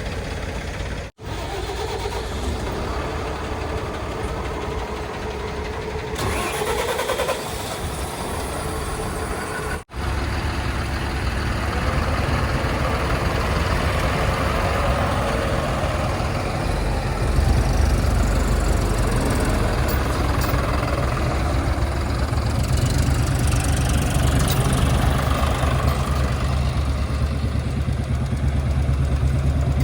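Diesel engines of heavy earth-moving vehicles running, with a brief rise in pitch about six seconds in. The sound drops out for an instant twice, and from about ten seconds on a louder, deeper engine rumble takes over.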